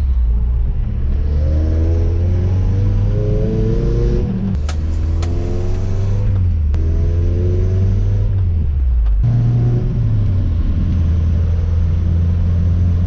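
A 1986 Toyota pickup's freshly rebuilt 22R carbureted four-cylinder engine pulling the truck along, its pitch rising several times as it accelerates. A few sharp clicks come about halfway through.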